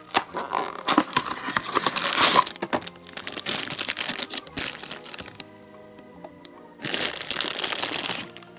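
Candy-toy packaging being handled and torn open: loud crinkling and crackling for about five seconds, then again for about a second and a half near the end, over soft background music.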